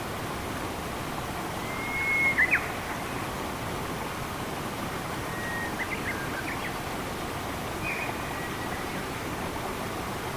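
Steady rush of flowing water, like a forest stream, with a few bird calls over it: a held whistled note with sharp notes just after it about two seconds in, then short chirps around six and eight seconds.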